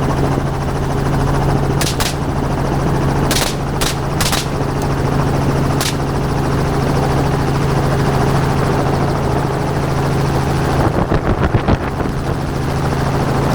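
Helicopter running steadily, with about half a dozen gunshots from the gunners aboard, spread over a few seconds early in the stretch.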